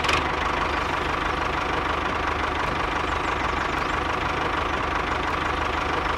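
A tractor engine running steadily at an even pace, with a fast, regular beat low down and no change in speed.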